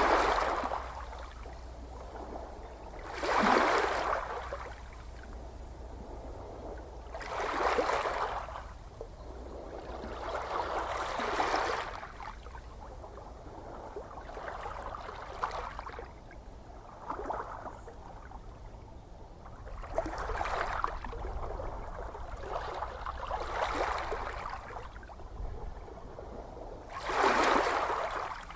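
Small ocean waves washing in every three to four seconds. Each wave is a swell of splashing wash that rises and fades, with the strongest surges at the start and near the end, over a low steady rumble.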